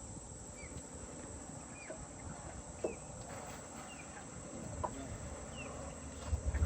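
Birds giving short chirps about once a second over a faint, steady high-pitched insect buzz.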